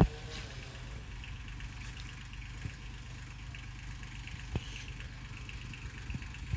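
Tractor engine running steadily at low revs, with a sharp knock right at the start and a lighter one about four and a half seconds in.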